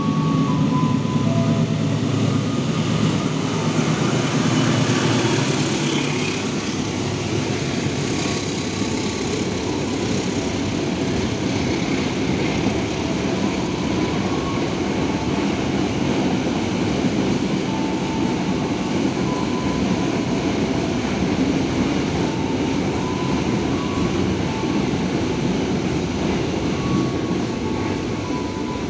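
Container freight train's wagons rolling past at speed, a steady rumble of wheels on rails that is loudest in the first few seconds.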